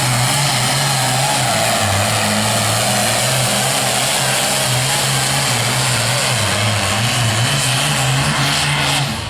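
Pulling truck or tractor engine running flat out under load as it drags the weight sled, a loud steady note that wavers and dips a few times and drops away suddenly near the end.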